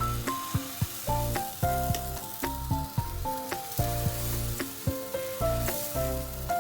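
Food sizzling in a hot frying pan, a steady hiss, with background music playing over it.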